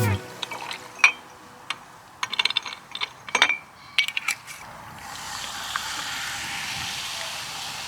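A run of small, sharp mechanical clicks and rattles, then a steady hiss that sets in about five seconds in.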